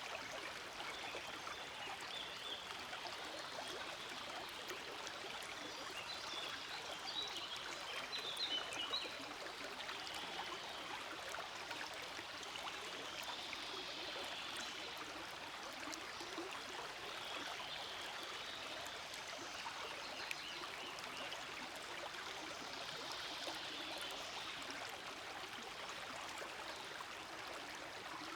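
Small forest stream flowing steadily, a continuous rushing of water, briefly a little louder around eight seconds in.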